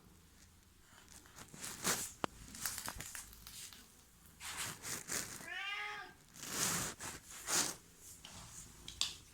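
A domestic cat meowing once about halfway through, a single call that rises and falls in pitch, with short rustling noises around it.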